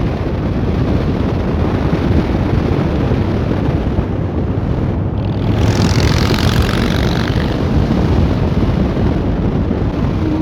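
Motorcycles riding at road speed: a steady engine drone mixed with heavy wind rush on the bike-mounted microphone. About six seconds in, a surge of louder hiss lasts a couple of seconds.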